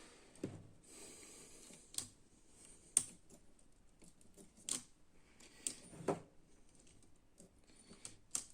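Irregular light clicks and taps of small hard objects being handled, about one a second, a couple of them sharper than the rest.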